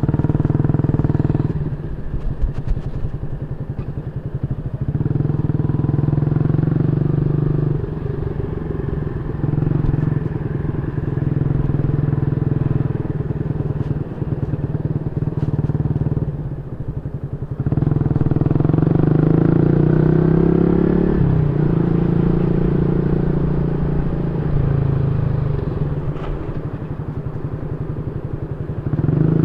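Yamaha Y15ZR's 150cc single-cylinder four-stroke engine running through a YYPANG SD3 aftermarket exhaust. The note swells louder and falls back several times, with the pitch bending up and down about two-thirds of the way through.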